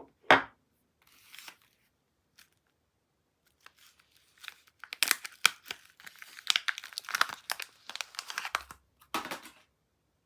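Soap packaging being torn open and crinkled by hand: a dense run of crackly rips and rustles over several seconds, after one sharp tap just after the start.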